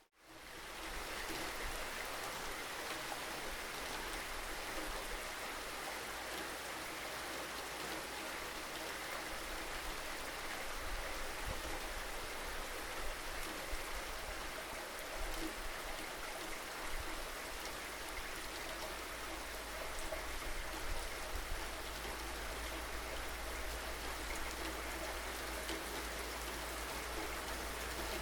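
Steady rainfall: an even hiss of rain with a low rumble underneath, fading in from silence at the very start.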